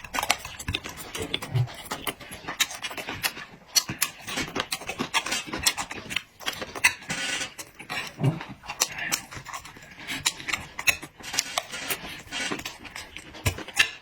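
Close-miked eating sounds: wet chewing and lip-smacking, with many quick clicks.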